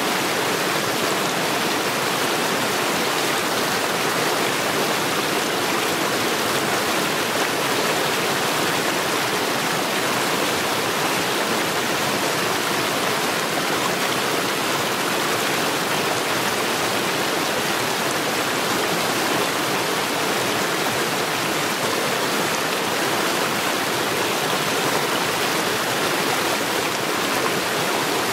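Mountain stream rushing steadily over stones, a constant even rush of water.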